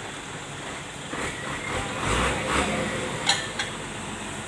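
Road traffic noise with a vehicle's engine swelling to a low rumble about two seconds in, then two sharp clicks a little after three seconds.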